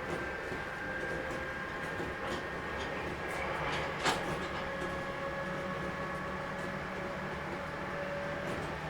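Running sound inside an 811 series electric multiple unit: a steady rumble and hum with a faint whine that rises slightly in pitch, and the short clicks of wheels crossing rail joints, the sharpest about four seconds in.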